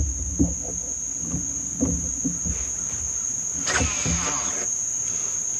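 Insects singing in a steady, high-pitched drone, with scattered soft low knocks and a brief swishing noise about four seconds in.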